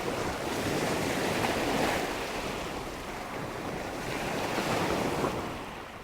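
Rushing water with wind, a steady hiss that swells and eases in slow surges about every three seconds, starting to fade out near the end.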